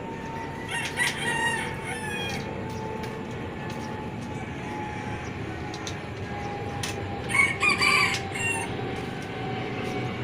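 A rooster crowing twice, about a second in and again about seven seconds in, each crow lasting a second or two, over a steady background hum.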